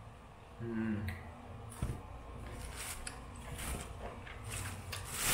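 A person chewing mangosteen fruit with wet mouth clicks and lip smacks, with a short hummed "mm" about half a second in and a sharper smack near two seconds.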